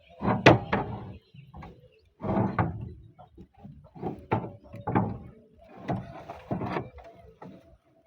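Roof tile sheets being handled and slid into place: irregular scraping and knocking, with a sharp knock about half a second in.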